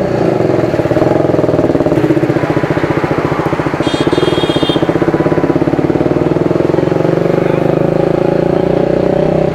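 TVS Apache RR 310's single-cylinder engine running steadily as the motorcycle pulls away and rides along the road. A short high-pitched tone sounds about four seconds in.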